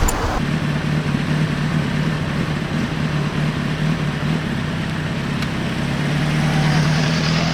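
A vehicle engine running at a steady pitch, as at idle or a held throttle.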